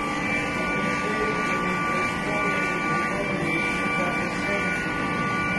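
A steady mechanical hum and hiss with two constant whining tones, and faint voices under it.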